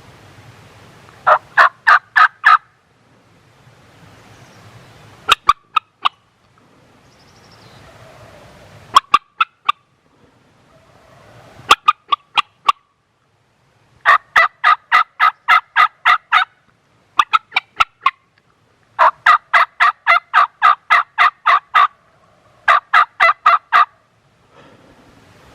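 Turkey hen yelps in eight series of evenly spaced notes, about four to five a second, from a few notes up to about a dozen per series. The notes are loud and close, as from a hunter's turkey call calling to gobblers.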